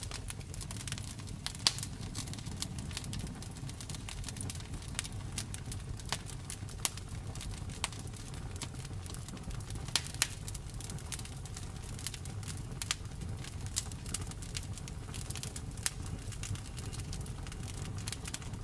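Wood fire in a fireplace crackling, with many small sharp snaps and a few louder pops, over a steady low rumble.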